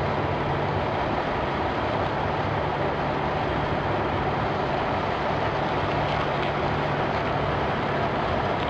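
Truck engine running steadily, with constant road noise and a low hum.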